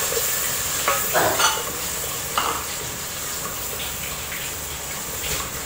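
A tomato-and-spice masala sizzling in oil in an aluminium pot as a wooden spoon stirs it, with a few short knocks and scrapes of the spoon against the pot about a second in and again a little later. The masala is being fried down with a little water added to keep it from burning.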